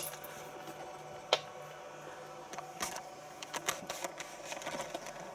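Scattered light clicks and taps of small dogs' claws on a hard floor, one sharper click about a second in and a flurry of them a little later, over a faint steady hum.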